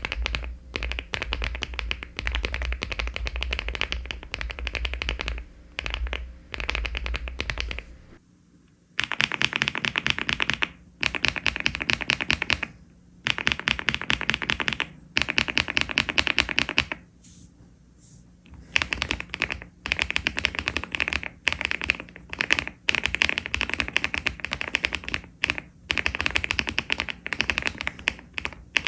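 Fast typing on a LEOBOG Hi75 aluminium mechanical keyboard with Cherry-profile keycaps: HMX Perky switches, then after a short pause about eight seconds in, HMX Pebble switches, in bursts of rapid keystrokes with brief breaks.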